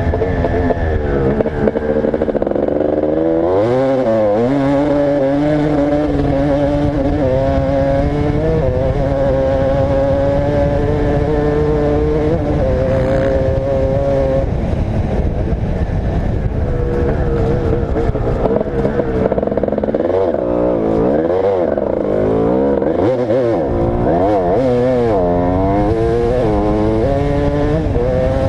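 Motocross dirt bike engine ridden hard, its pitch climbing and dropping again and again as the rider opens and closes the throttle and shifts gears, with steadier stretches at speed.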